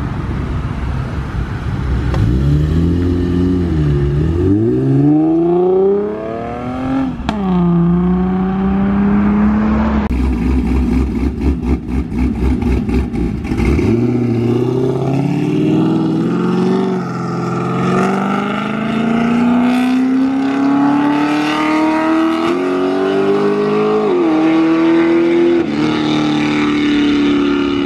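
Fifth-generation Chevrolet Camaro revving hard, then accelerating away through the gears. Its engine note climbs steadily and drops back at each shift.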